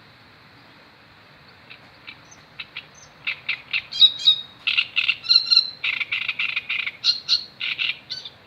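A bird calling a long run of short, quickly repeated notes that begins faintly a couple of seconds in and grows louder, several notes a second.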